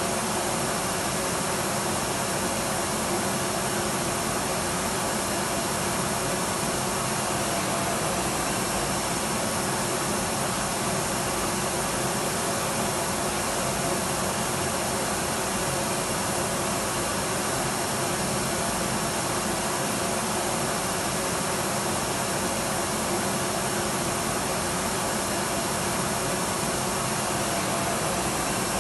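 Electric vacuum cleaner running continuously at a steady pitch, its motor and airflow making an even whooshing drone with a faint steady hum in it.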